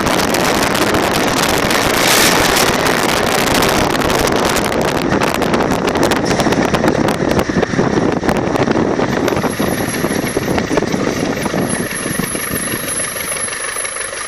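Ford F100's four-cylinder Perkins diesel engine running loud through a straight, unmuffled exhaust, with a rapid, rough firing beat. It eases off slightly over the last few seconds, and a thin high whine comes in about nine seconds in.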